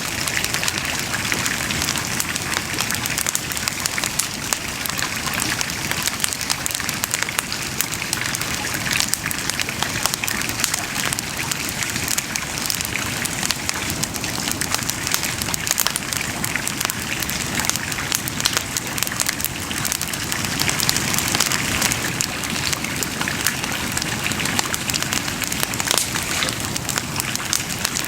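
Wood bonfire burning with a dense, steady crackle of many small snaps and pops.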